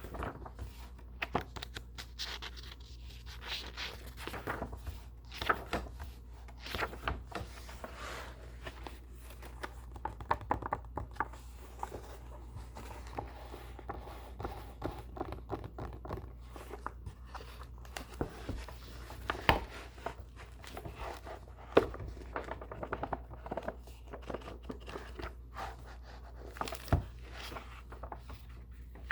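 Close-miked handling of old and new books: paper pages rustling and scraping, with frequent light clicks and taps. A few sharper taps stand out in the second half.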